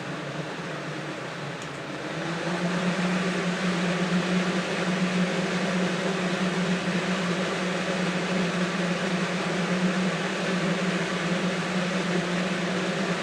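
Lasko Galaxy 3712 12-inch two-speed box fan running. About two seconds in it picks up to high speed and gets louder, then runs steadily with a low motor hum over the rush of air.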